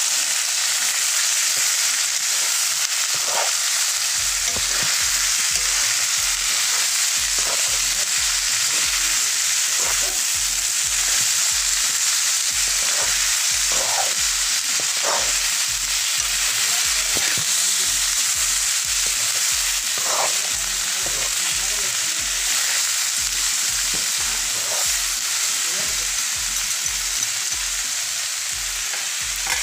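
Shredded banana flower and chicken sizzling in a kadai as a spatula stirs and turns it, with scrapes and knocks of the spatula against the pan now and then over a steady frying hiss.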